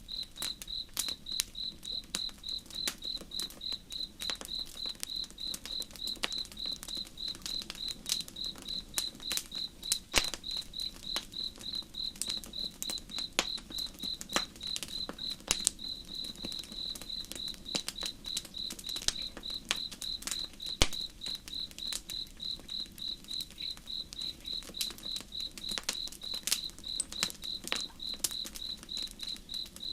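A cricket chirping in a steady, even rhythm of high-pitched pulses, over the irregular crackle and snap of a wood campfire, with two sharper pops about ten and twenty-one seconds in.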